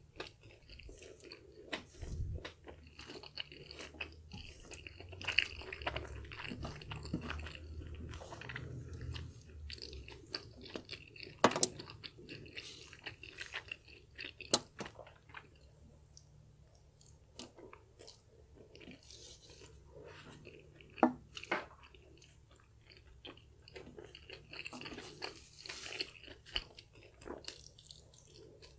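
Close-miked chewing of sticky black bean noodles, with wet mouth sounds and several sharp clicks of a metal fork against a metal baking tray.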